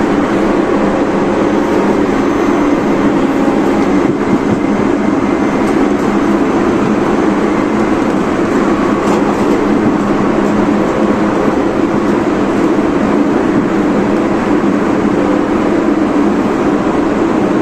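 Tobu 30000 series electric train running at steady speed, heard from inside the car: a continuous dense rumble of wheels on rail, with faint clicks here and there.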